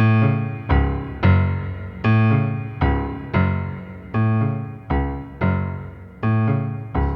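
Solo piano playing a bouncy tango-style accompaniment: accented, bass-heavy chords struck in a repeating long-long-short rhythm, each ringing and fading before the next.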